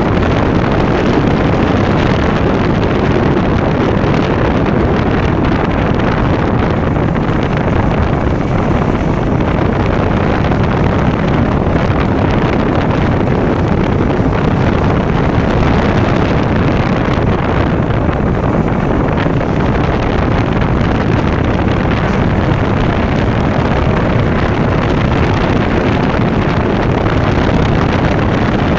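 KTM Duke motorcycle engine running at a steady pace while riding, mixed with heavy wind buffeting on the microphone.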